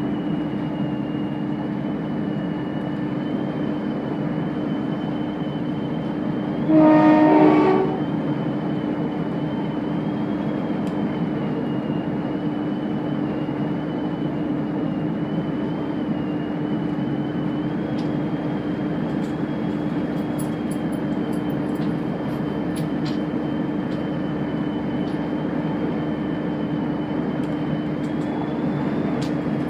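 Chiltern Railways diesel train running with a steady drone and a high whine; its horn sounds once, for about a second, about seven seconds in.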